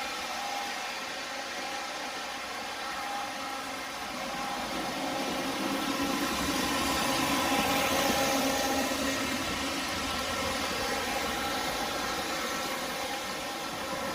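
O-scale model SD70ACe diesel locomotives running around three-rail track under power, their onboard sound systems playing a steady diesel engine sound over motor and wheel noise. It grows louder toward the middle as the trains come close, then eases off.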